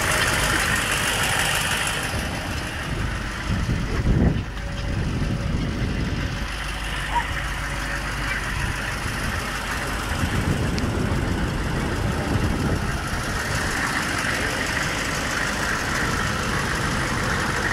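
Car engine running steadily, with a brief louder rumble about four seconds in.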